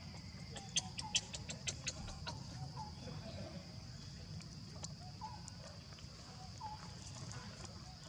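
Short, repeated animal calls, one every half second to a second, with a quick run of sharp taps a second or two in and a steady high hiss throughout.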